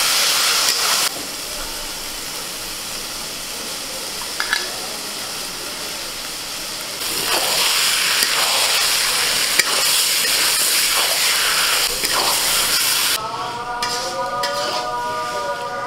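Chopped goat fat and liver masala frying and sizzling in a steel kadai, stirred and scraped with a spatula; the sizzle gets louder about seven seconds in. Near the end the sizzle cuts out and a held sound at several pitches comes in.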